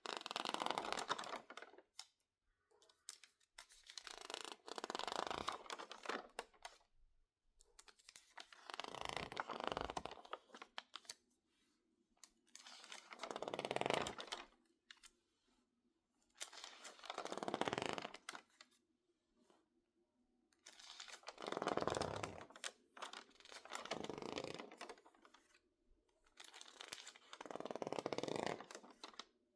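Crinkled, water-damaged magazine pages being handled: repeated bursts of dry crackling and crinkling, each a second or two long, about every four seconds with quiet gaps between. The crisp texture comes from pages that were wetted and left to dry stiff and wrinkled.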